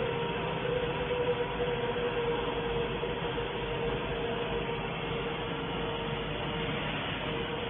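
A 2 kW CNC fiber laser cutting machine running: a steady hiss with a steady humming tone under it, with no breaks or changes.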